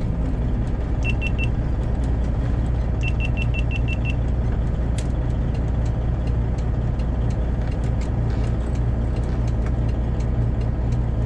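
Steady low drone of the truck's straight-piped Detroit Diesel 12.7-litre engine running. Short high beeps come in two quick runs, three about a second in and seven more about three seconds in, with scattered faint clicks.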